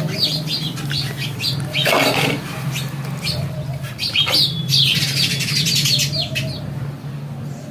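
Small birds squabbling in rapid, overlapping chirps, thickest about two seconds in and again around five seconds, with a short harsher noisy burst about two seconds in. A steady low hum runs underneath.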